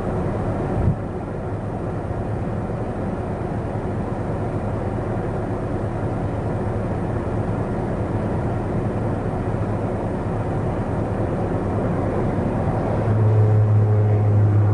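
A vehicle engine running steadily and slowly growing louder, with a single knock about a second in and a deeper, stronger drone coming in near the end.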